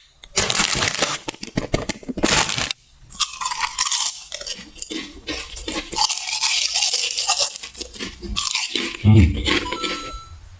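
Close-miked crunchy chewing: loud crunching for the first few seconds, then steady wet chewing with crackles, and a low thud about nine seconds in.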